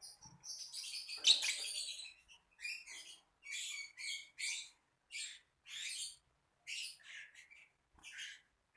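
Lovebird calling in a quick series of short, high, shrill chirps, about two a second, with a louder, longer burst of chatter about a second in.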